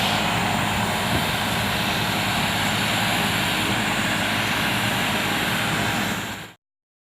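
Leaf blower running steadily, a loud motor whine with a rush of air, clearing fallen leaves; it cuts off suddenly near the end.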